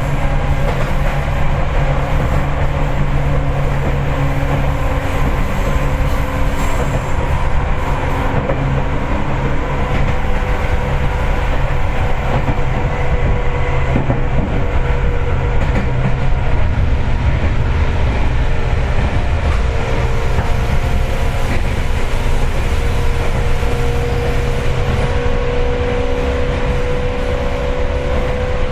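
Seibu 4000 series resistance-controlled electric train running, heard from inside the passenger car: a steady rumble of wheels and running gear with a motor and gear hum. One hum tone rises slowly in pitch over the last several seconds.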